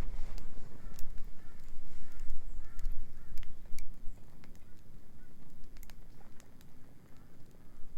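Beach bonfire crackling, with scattered sharp pops from the burning wood over a low wind rumble. A run of short chirping calls from an animal comes mostly in the first half.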